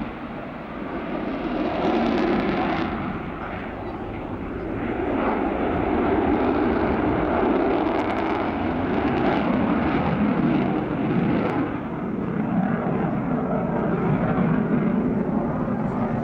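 Fixed-wing aircraft engine noise as a display aircraft flies, a continuous drone that swells and fades as it passes.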